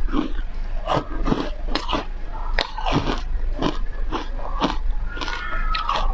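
Foam ice being bitten and chewed, with sharp, crisp crunches about twice a second.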